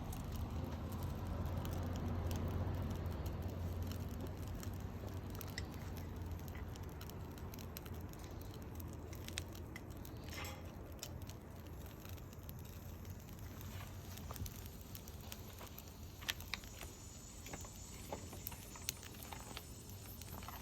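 Wood fire crackling, with scattered sharp pops that come more often in the second half, over a low rumble that fades in the first few seconds.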